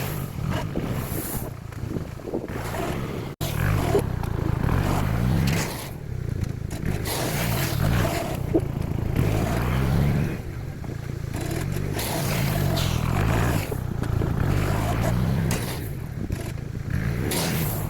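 Bombardier Quest 650 ATV's V-twin engine running as its plow blade pushes gravel, with gravel scraping against the blade over the engine. The sound drops out briefly about three seconds in.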